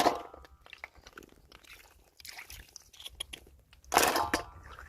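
Snail shells clicking and knocking as they are handled, with two louder clattering bursts, one at the start and one about four seconds in.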